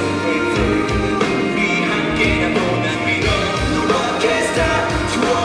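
Live rock band playing, with drums keeping a steady beat and sung lines over the guitars.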